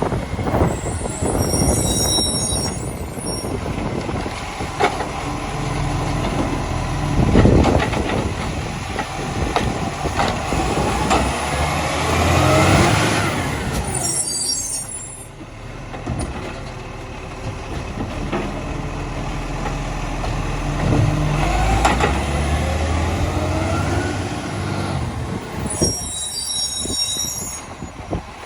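Side-loader garbage truck working its bin lift: the diesel engine revs up twice to drive the hydraulic arm, each time with a rising whine. Short hisses of air sound three times, near the start, midway and near the end.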